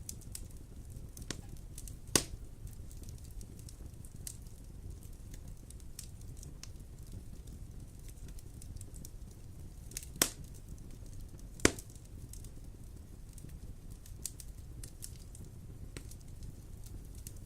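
Wood fire in a fireplace crackling over a low steady rumble, with scattered small ticks and three loud sharp pops: one about two seconds in and two close together around ten to twelve seconds in.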